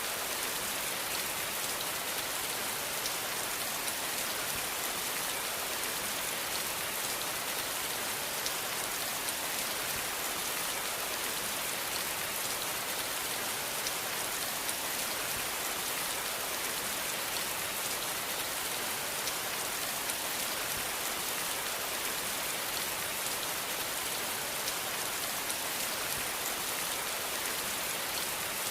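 Steady rain falling on a surface, an even hiss with fine scattered drop ticks and no change in intensity.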